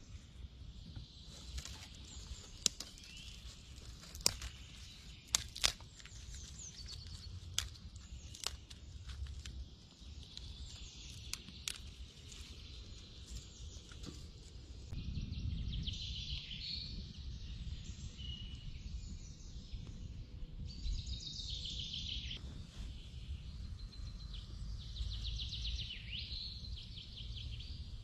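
Forest birds singing and chirping, with a scatter of sharp clicks or knocks in the first half and a low rumble from about halfway.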